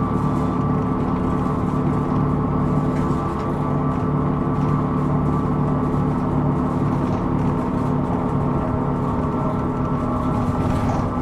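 Hino Rainbow II non-step bus heard from inside the cabin while under way: a steady engine and drivetrain drone with several constant whining tones above it, on a bus whose recording is labelled for an abnormal noise.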